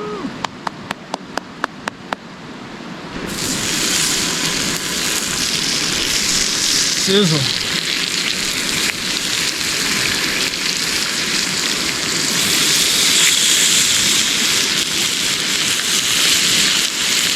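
Food sizzling in a hot skillet over a campfire. The sizzle starts suddenly about three seconds in, as the food goes into the pan, and holds as a loud, steady hiss. It follows a quick run of sharp clicks.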